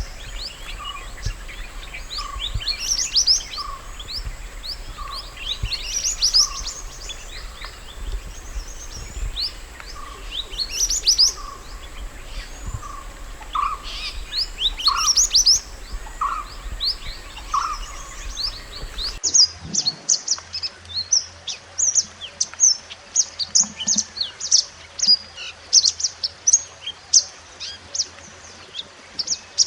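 Small songbirds, sold as the mountain 'mantenan gunung' bird, chirping and twittering in quick high bouts, with a lower single note repeating about once a second. About two-thirds of the way in, the recording changes abruptly to a denser run of rapid high chirps over a quieter background.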